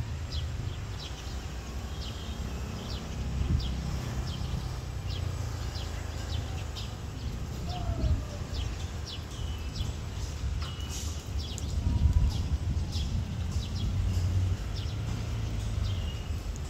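Outdoor ambience: a steady low rumble with small birds chirping over it, short high chirps repeated about twice a second.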